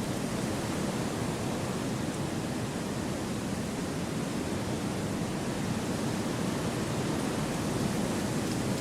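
Wind blowing steadily through forest trees: an even, unbroken rush with no distinct gusts.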